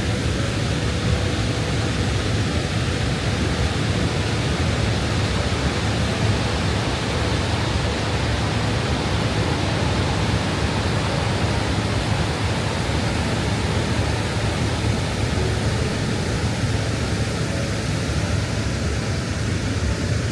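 Niagara Falls' water pouring, heard as a steady, unbroken rushing noise.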